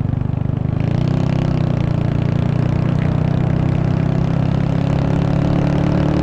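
Honda Wave 125's single-cylinder four-stroke engine running under way as the motorcycle is ridden, its pitch lifting about a second in, then holding steady and creeping up near the end. A rush of wind on the microphone runs under it.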